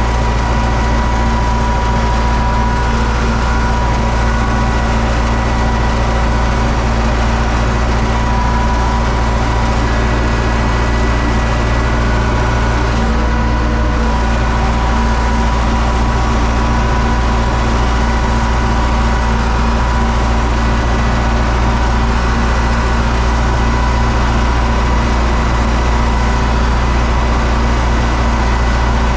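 UTB U650 tractor's diesel engine running at a steady speed, with a steady whine above the engine drone.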